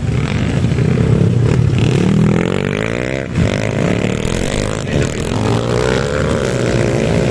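Dirt bike engines racing on a motocross track, revving up and dropping off as riders accelerate, with rising engine pitch about two seconds in and again about five seconds in.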